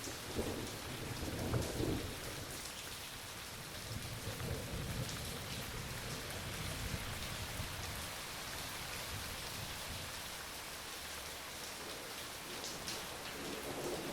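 Steady rain falling, an even hiss, with low rolling thunder swelling in the first two seconds and again around four to six seconds in.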